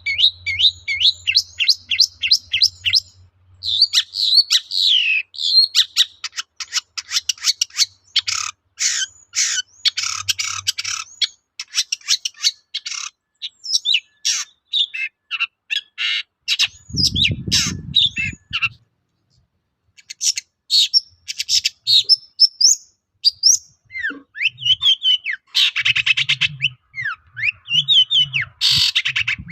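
Long-tailed shrike singing a fast, varied song of chattering notes and down-slurred whistles, with a short break about two-thirds of the way through. A brief low rumble sounds just before the break.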